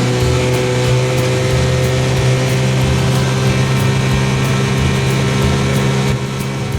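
1968 6 hp Evinrude two-cylinder two-stroke outboard running steadily at constant speed with the boat under way. The level dips slightly about six seconds in.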